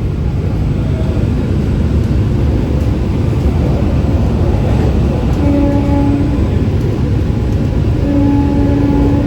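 Electric suburban AC local train running at speed, heard inside the coach as a steady loud rumble. A steady tone of about a second sounds twice in the second half.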